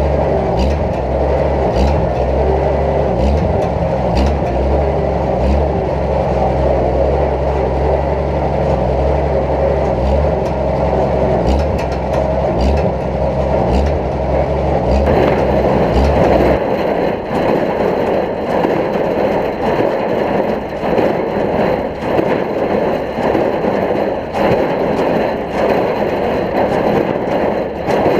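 Oliver 770 tractor engine running steadily while pulling a Case baler through straw. About two-thirds of the way in, the deep low engine hum drops away and a lighter, choppier machine sound carries on.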